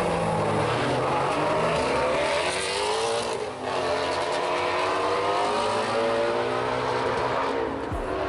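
High-performance car accelerating hard, its engine climbing in revs, with a gear change about three and a half seconds in and the revs climbing again after it.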